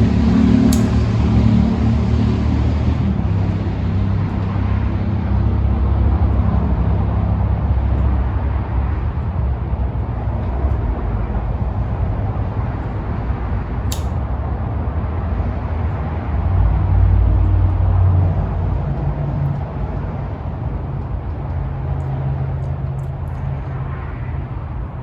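Steady low outdoor rumble that swells and eases, heaviest in the bass, with one short sharp click about fourteen seconds in.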